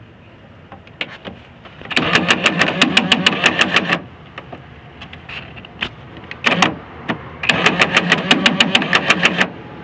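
2005 Ford Focus ZX5 power window motor and regulator inside the open door, run twice for about two seconds each, with a rapid, even clicking over the motor's hum. The clicking is typical of the door's power-window fault, the noise being traced down inside the door.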